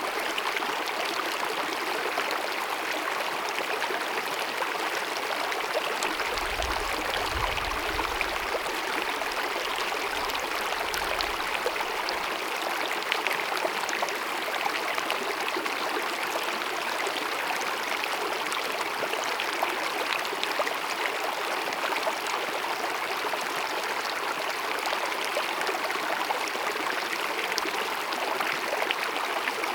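Small glacier-fed mountain meadow stream babbling and cascading, a steady rush of running water. A faint low rumble comes and goes between about six and twelve seconds in.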